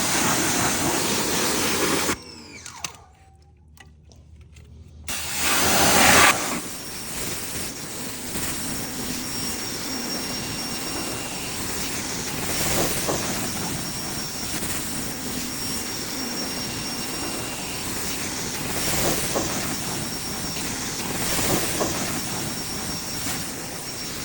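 Ryobi pressure washer jetting water onto a muddy motorcycle: a loud, steady spraying hiss. The spray breaks off about two seconds in, comes back loudly about five seconds in, then runs on steadily a little quieter.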